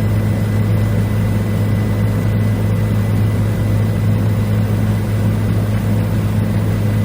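Helicopter in flight: a loud, steady low drone of rotor and engine, with a thin, steady high whine above it.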